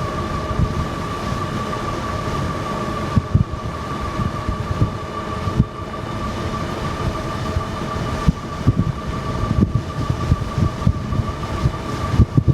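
Dual 3000 W motors of an electric bike running under throttle while riding, giving a steady high whine, over low gusty wind buffeting on the microphone.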